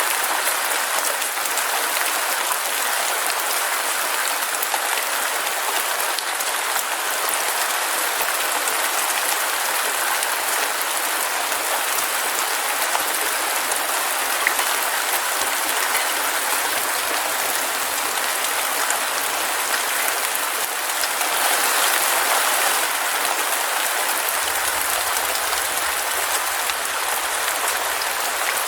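Heavy rain falling steadily: a dense, even hiss of drops with a fine crackle running through it, swelling a little about three-quarters of the way through.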